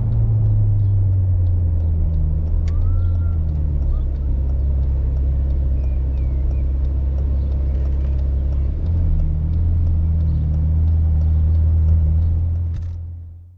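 Ferrari California V8 engine running at low revs, a steady low drone heard from inside the cabin at slow driving speed, its pitch shifting slightly a couple of times. It fades out near the end.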